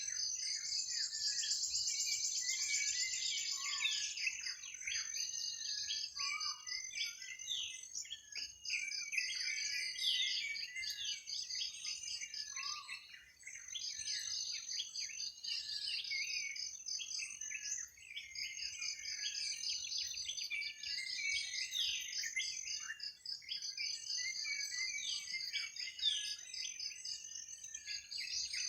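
Many birds chirping and calling at once in short, overlapping phrases, over a steady high-pitched pulsing insect trill.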